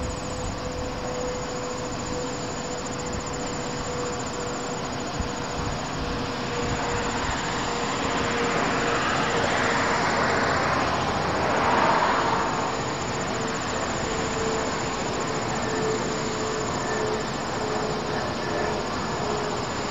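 Low-flying aircraft passing overhead, its jet-like engine noise swelling to a peak about twelve seconds in and then easing off. Crickets chirp steadily underneath.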